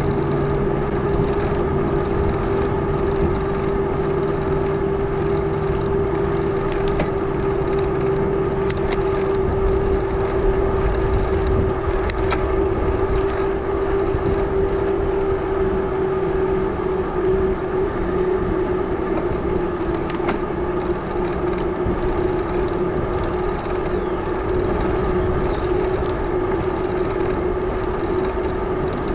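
Wide 650b tires on a Salsa Journeyman gravel bike humming loudly on pavement while riding: a steady whine over rolling road noise, with a few sharp clicks.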